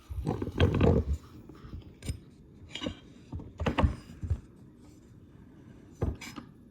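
Objects being handled and set down: a series of separate knocks and clatters, loudest in the first second, with more scattered knocks every second or so after.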